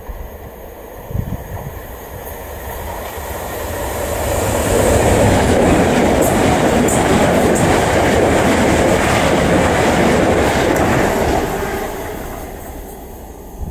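Southern Class 377 electric multiple unit passing at speed: the rush of its wheels and air builds over a couple of seconds, stays loud for about six seconds as the carriages go by, and fades away near the end.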